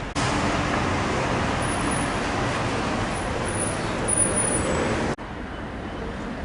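Street traffic noise, a steady rush of passing vehicles. It cuts off abruptly about five seconds in, leaving quieter background noise.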